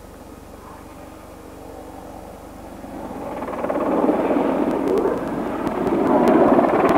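AH-64 Apache attack helicopter flying a display pass. Its rotor and engine noise is faint at first, then grows loud from about three seconds in as it comes closer.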